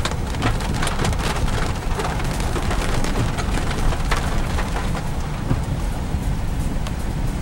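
Heavy rain striking a car's roof and windshield, heard from inside the cabin as a dense, steady patter of sharp drop hits. Under it runs a steady low rumble from the car as it rolls slowly along.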